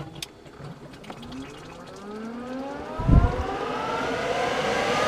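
Arctic Air 24-volt portable air conditioner's two blower fans spooling up after being switched on: a whine that rises steadily in pitch and grows louder. A couple of clicks at the start, and a low thump about three seconds in.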